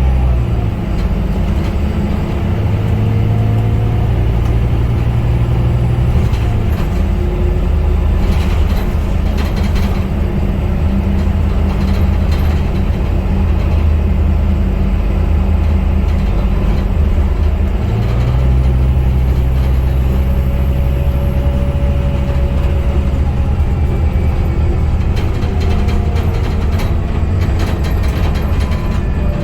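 Scania K250UB city bus's rear-mounted diesel engine running while the bus drives, its note easing off about six seconds in and pulling strongly again about two-thirds of the way through. Short rattles and clicks from the bus body come and go over the engine.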